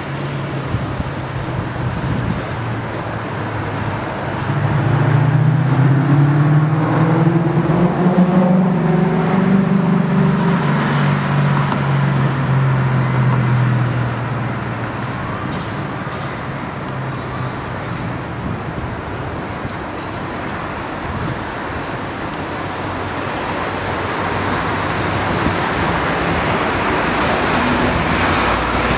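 City street traffic noise, with a louder vehicle engine running and shifting in pitch for several seconds near the start, then fading back into the general traffic.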